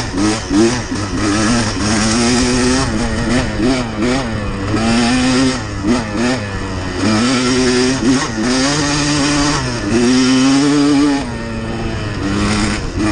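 Dirt bike engine running under way, its pitch rising and falling again and again as the throttle is opened and closed over rough, changing terrain.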